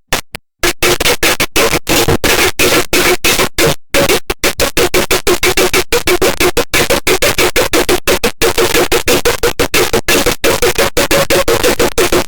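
Harsh noise music: loud, dense static stuttering on and off many times a second over a steady droning pitch, kicking in after a few short silent gaps in the first second.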